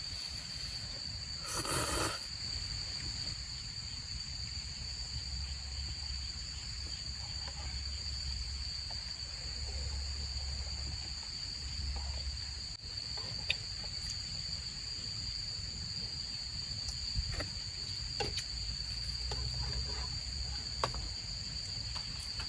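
Crickets singing in a steady, unbroken high chorus, over a low hum. There is a short burst of noise about two seconds in and a few faint clicks later on.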